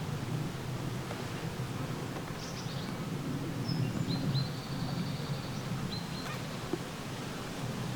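Outdoor ambience: a steady low rumble, with a few short, high whistled bird calls in the middle.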